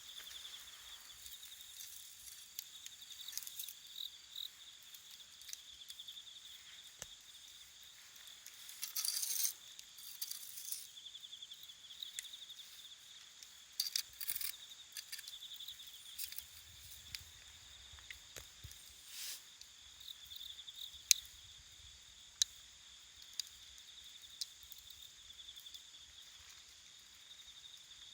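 Wood fire crackling in a small camp fire stove, with scattered sharp pops, the loudest about three quarters of the way through, over steady chirping of crickets.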